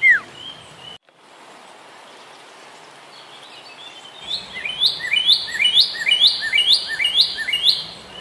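A bird calls a series of about seven loud, evenly repeated notes, about two a second, in the second half, over a steady outdoor background. A short falling whistle sounds at the very start.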